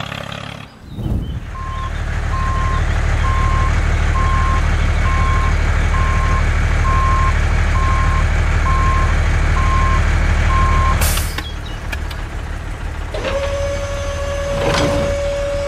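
Truck engine running with a reversing alarm beeping about once a second; both stop about eleven seconds in. A couple of seconds later a steady whine begins.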